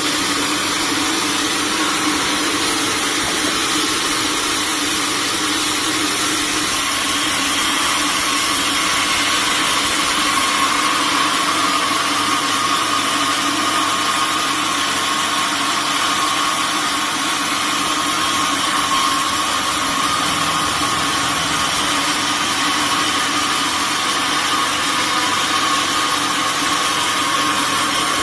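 Sawmill machinery running steadily: a constant machine noise with a high, even whine.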